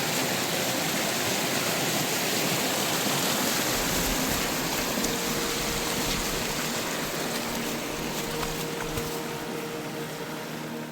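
Heavy monsoon rain pouring down as a dense, steady hiss that eases slightly near the end.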